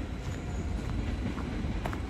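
Low steady rumble of a rail vehicle rolling along the track, with light scattered clicks.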